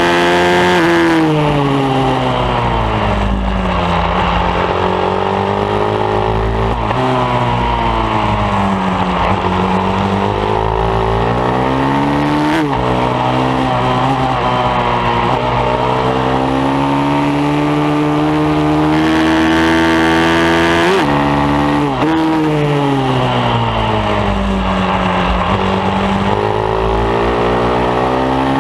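Bucci F15R pit bike engine at racing revs on a track lap, the pitch climbing and falling over and over as it accelerates and backs off, with several sudden sharp dips at gear changes.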